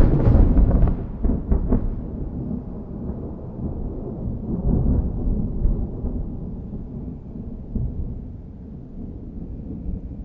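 Thunder from a nearby lightning strike: a sudden sharp crack with crackling through the first two seconds, then a long low rumble that slowly fades away.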